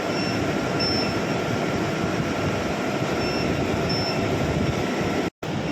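Mini induction melting furnace running with a steady mechanical rush, with short faint high-pitched tones coming and going. The sound drops out completely for a moment near the end.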